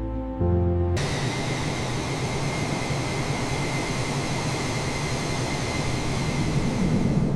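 Jet aircraft engine noise, starting suddenly about a second in and running steadily with a high whine over a low rumble, swelling slightly near the end.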